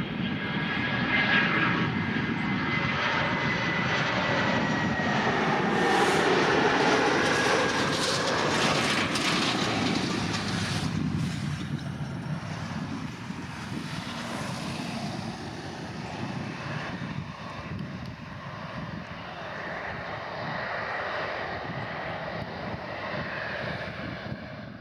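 Airbus A320-200 jet engines as the airliner comes in to land, with a thin high whine early on. It is loudest about five to ten seconds in, then eases to a lower, steady run.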